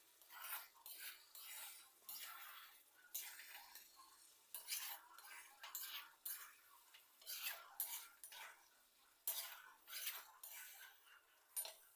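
A spoon scraping around a cooking pot while stirring chicken curry. It makes a quick, irregular series of short scrapes, about one or two a second.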